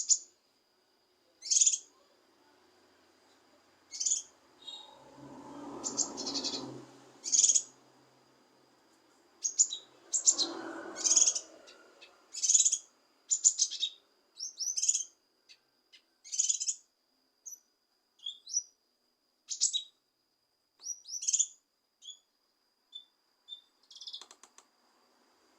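Cucak kinoi calling: short, sharp, high chirps repeated about once a second, with a faint steady high tone beneath. A duller, lower noise swells and fades twice, around six and eleven seconds in.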